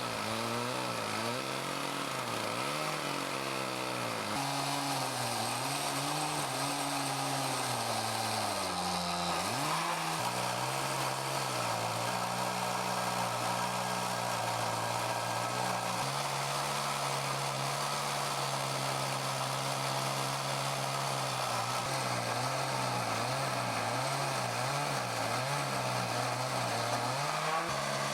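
Chainsaw running under load on an Alaskan chainsaw mill, ripping a slab from a maple log. Its pitch wavers over the first few seconds, drops and recovers about nine seconds in, then holds steady.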